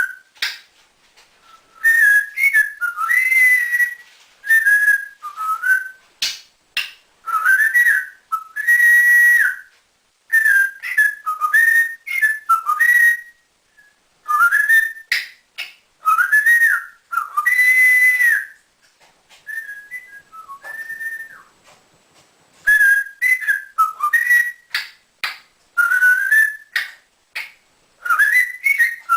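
African grey parrot whistling: a string of short whistled phrases with sliding, wavering pitch, broken by brief pauses.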